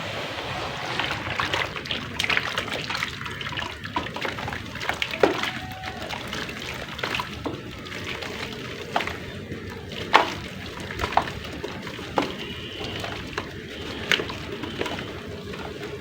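Soft, dusty clay crumbling into water and being worked into a wet paste: wet sloshing with irregular crackles and a few sharper snaps.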